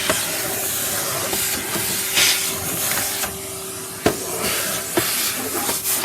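Henry canister vacuum cleaner running: a steady rush of suction air over a steady motor hum, with a few sharp clicks near the end as debris knocks through the hose.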